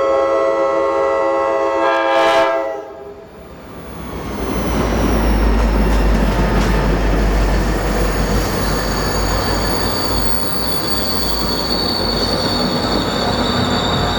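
A train horn holds a chord of steady tones, which cuts off about two and a half seconds in. A moment later a train rolls by with a low rumble and a steady high-pitched wheel squeal.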